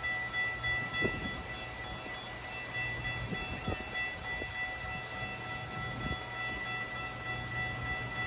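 Unseen train approaching: a steady high whine over a low hum, with a few faint knocks.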